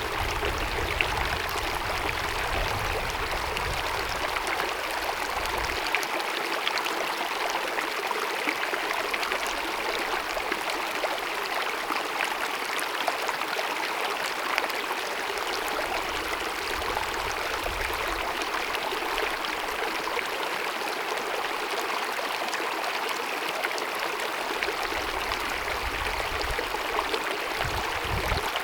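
Small mountain meadow stream babbling and splashing steadily over rocks, with a bright, even rush of water and small irregular splashes.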